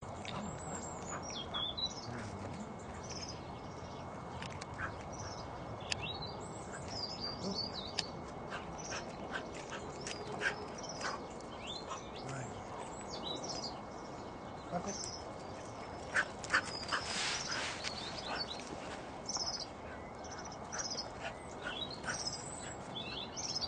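Small birds chirping in short, high calls over and over, over a steady outdoor hiss, with scattered light clicks and taps; a cluster of sharper clicks comes about two-thirds of the way in.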